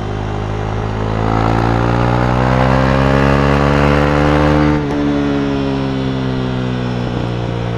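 KTM Duke 390's single-cylinder engine through an Akrapovic exhaust, accelerating with its pitch rising steadily for about four seconds, then the revs dropping sharply about halfway through and winding slowly down.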